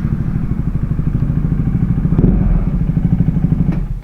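Motorcycle engine running unevenly and misfiring, with a brief blip a little after two seconds, then cutting out just before the end. The misfire is put down to the bike running low on fuel.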